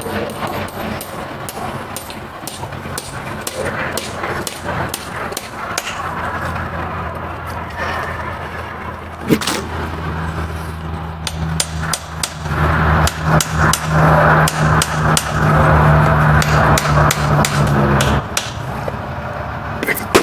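Irregular sharp knocks and taps of farrier work on a horse's hoof and shoe, with a steady low hum through the middle that stops about 18 seconds in.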